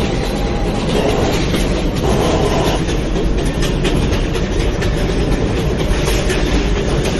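New York City subway J train running between stations, heard from inside the car: a steady rumble with wheels clicking over the rail joints.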